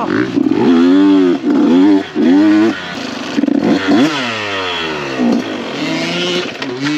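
Dirt bike engine revving in short bursts of throttle, then dropping in pitch about four seconds in as the throttle is rolled off, and running on at a lower pitch.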